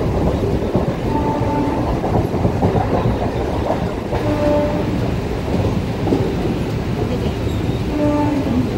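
Suburban EMU electric train running at speed, heard from its open doorway: the steady running noise of the wheels on the rails, with three short faint tones a few seconds apart.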